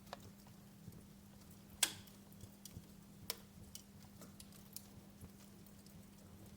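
Wood fire crackling: scattered sharp pops and snaps at irregular intervals, the loudest about two seconds in and another sharp one just past three seconds.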